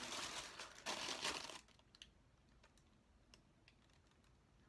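Packaging rustling and crinkling as a shoe box is opened, for about a second and a half, then it goes almost quiet with a few faint clicks.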